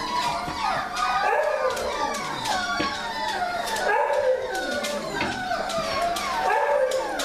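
A litter of young puppies whining, yipping and howling together: many overlapping high cries rising and falling without a break.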